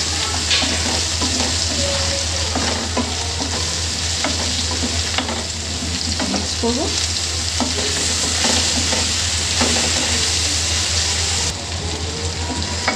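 Spiced chicken pieces with onion, tomato and chillies sizzling in a frying pan while a wooden spatula stirs and scrapes through them, with frequent short scrapes and taps against the pan.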